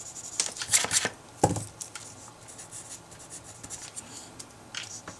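Paper and writing things handled on a desk: a quick run of scratchy rustles about half a second in, a soft knock just after, then light scratching.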